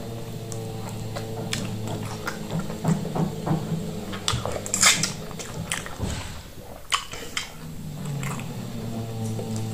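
Close-miked wet chewing and lip-smacking of plantain fufu eaten with stringy okra soup, with scattered sticky clicks; the loudest smack comes about five seconds in. A steady low hum runs underneath.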